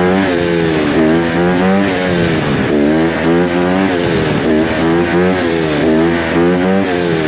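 150cc dirt bike engine being revved, its pitch rising and falling again and again as the throttle is blipped.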